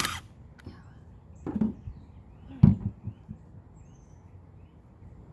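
A power drill driving a screw stops just as it starts. Then come a few separate knocks and clunks from handling the tool and parts, the loudest about two and a half seconds in.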